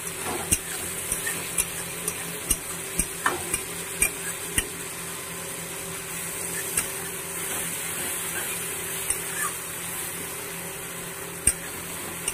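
Onions and tomatoes sizzling in a metal kadai while a spatula stirs them, with irregular clicks and scrapes of the spatula against the pan, most frequent in the first few seconds.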